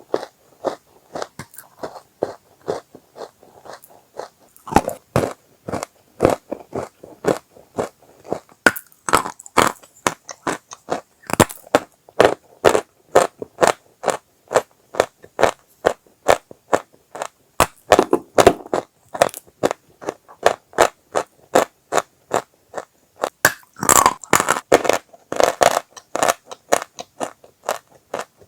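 Dry chalk being bitten and chewed: a rapid run of sharp, dry crunches and crackles, several a second, with louder bursts of crunching around two-thirds of the way through and near the end.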